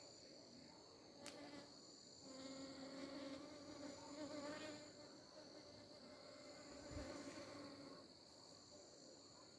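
Faint insect chorus: crickets keep up a steady high-pitched trill, while a flying insect buzzes close by, loudest from about two to five seconds in. A single sharp click sounds about a second in.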